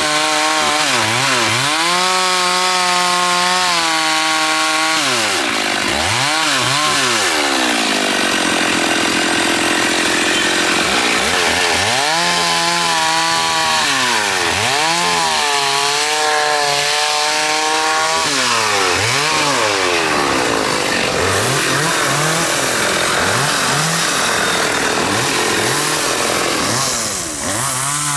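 Chainsaw engine revving up and down over and over. Between the revs there are longer stretches held at full throttle, where it is cutting through the trunk of a large xà cừ (African mahogany) tree.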